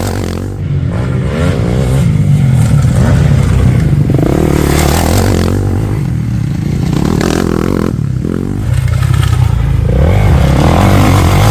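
Motocross motorcycle engine running loud, revving up and falling back several times as it is ridden.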